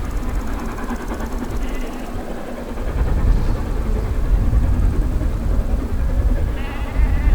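Steam-hauled passenger train with a diesel locomotive pushing on the rear, running past with a steady low rumble that eases briefly about two seconds in.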